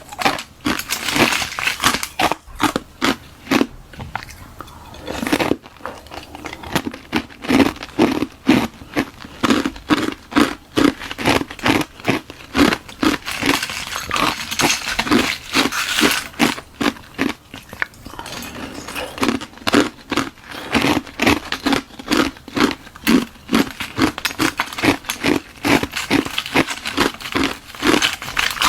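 Hard ice being bitten and chewed: a hollow shell of balloon-frozen ice around frozen milk-tea ice, giving a steady run of sharp crunches, a few each second.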